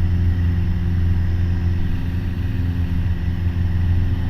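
Piper Warrior's four-cylinder Lycoming engine and propeller droning steadily at a constant pitch, heard inside the cockpit.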